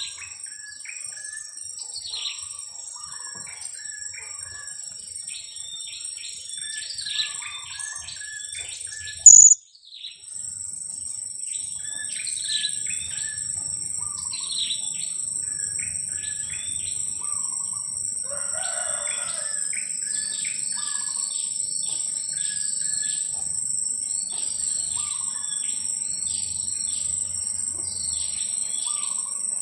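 Two-week-old blue-crowned hanging parrots (serindit) repeatedly giving short, high 'kiak' calls over a steady high insect drone. A single sharp loud click about nine seconds in, after which the drone is louder.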